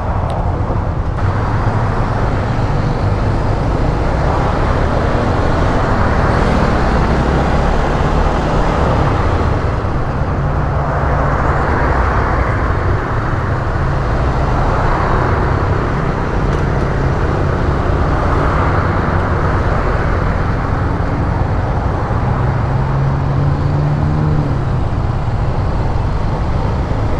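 150cc motorcycle engine running steadily under way, mixed with a constant rush of road noise. The engine note climbs briefly about three seconds before the end.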